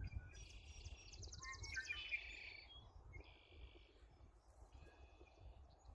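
Red-winged blackbird singing: a song of quick notes running into a fast buzzy trill, then two shorter buzzy phrases a couple of seconds later.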